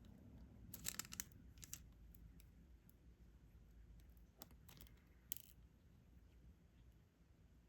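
Faint, scattered small clicks and taps of diamond-painting work: plastic resin drills picked up from the tray with a stylus and pressed onto the canvas, a cluster about a second in and a few single taps later.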